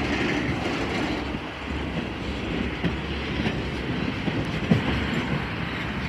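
Railroad tank cars rolling past: a steady rumble of steel wheels on rail, with a few sharp clacks scattered through it.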